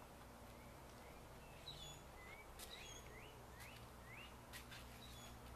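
Faint bird chirps: a series of short rising whistled notes, some higher brief notes among them, starting about a second and a half in. A few faint sharp clicks come in the second half.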